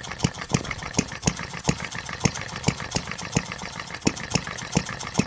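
1/8-scale model Reid two-stroke gas engine running slowly on propane: a string of sharp firing pops, a few a second, not quite evenly spaced.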